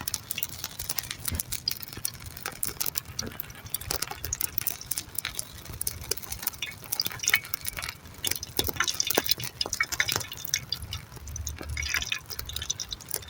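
Irregular light clicks and ticks, scattered unevenly.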